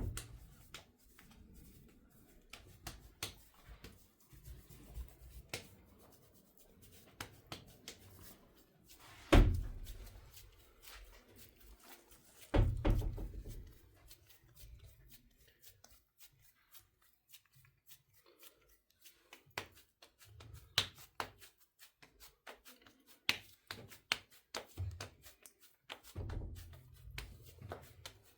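Household handling noises in a small room: scattered light clicks and knocks of things being moved and set down, with two heavy thuds, one about nine seconds in and another about three seconds later.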